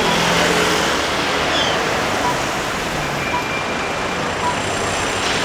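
Steady city street traffic noise from cars and other vehicles passing, with a few short faint beeps.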